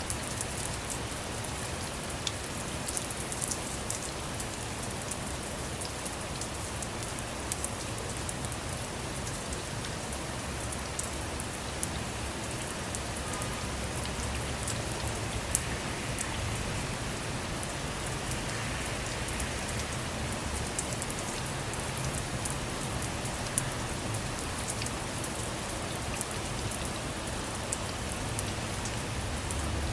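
Steady rain falling on a car, with many scattered sharp ticks of single drops over an even rushing hiss.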